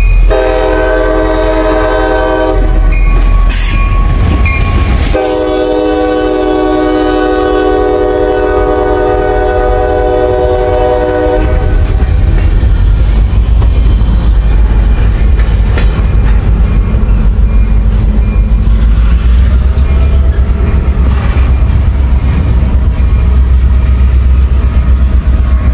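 Diesel freight locomotive's multi-chime air horn sounding two blasts, a short one and then a long one of about six seconds. After that comes the steady rumble and clickety-clack of loaded covered hopper cars rolling past.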